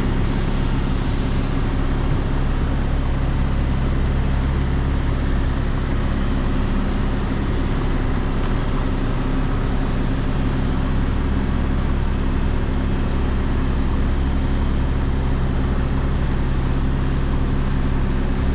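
HGV lorry's diesel engine running steadily at low revs while reversing slowly onto a loading bay, with a short hiss about half a second in.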